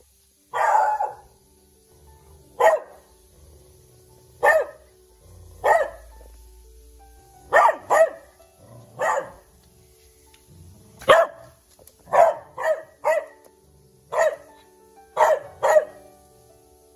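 A beagle barking repeatedly: about fourteen short barks at uneven spacing, some in quick pairs, with a longer first bark.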